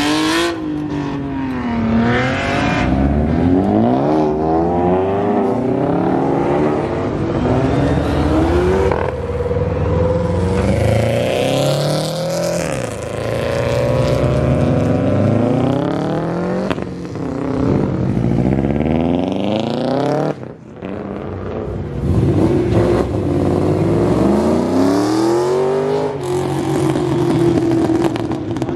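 Several car engines revving and accelerating away one after another, their pitch climbing and dropping with each gear change, with overlapping engines at once.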